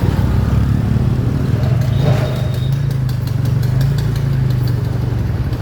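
Motorcycle engine running at a steady speed, a low even hum with slight rises and falls in pitch.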